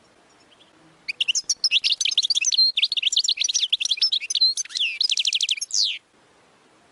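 European goldfinch singing an ouedani-style song: one fast phrase of about five seconds of twittering, rapidly changing notes, with a quick even trill near the end and a falling note to close.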